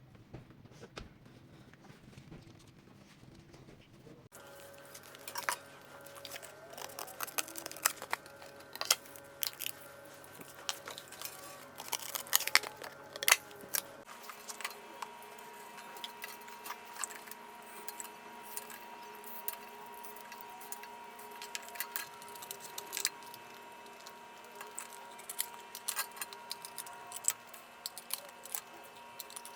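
Scissors and hands cutting and handling cardboard and paper: irregular snips, crinkles and clicks over a faint steady hum, in several edited segments.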